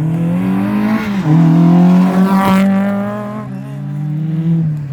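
Rally car engine at full throttle going past: the engine note climbs about a second in, is loudest just after, then drops in pitch and fades as the car moves away.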